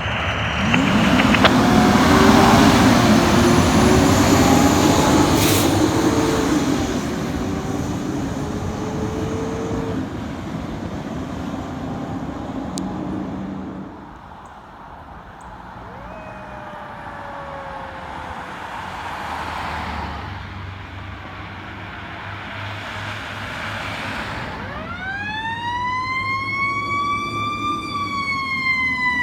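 Fire trucks responding with sirens sounding and heavy diesel engines passing, loudest in the first several seconds. Near the end a mechanical siren winds up in a steep rising howl, then begins to coast down.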